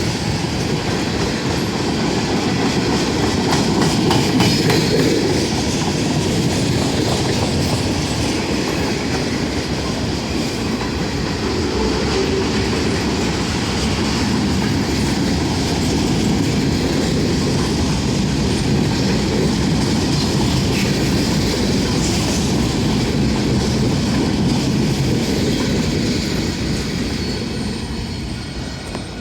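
Norfolk Southern train rolling past, its wheels clicking over the rail joints with some wheel squeal. The steady rumble fades over the last couple of seconds.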